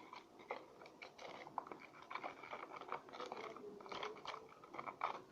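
Spoon stirring white glue and glitter in a bowl: a run of irregular sticky clicks and scrapes.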